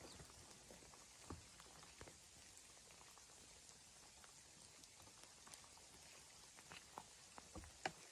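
Near silence: a faint steady hiss with scattered light ticks, a few louder ones near the end.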